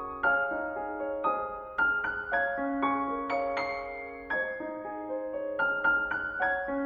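Gentle piano music: slow notes and chords struck about two or three times a second, each ringing out and fading.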